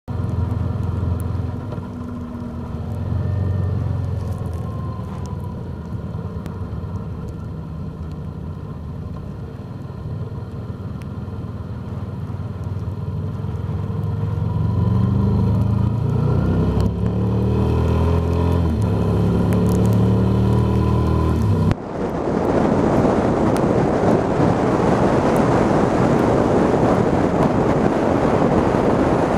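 Yamaha TDM900 parallel-twin engine running on the move, its pitch rising and falling as the rider accelerates and changes gear. About 22 seconds in, loud wind noise on the microphone suddenly takes over and buries the engine.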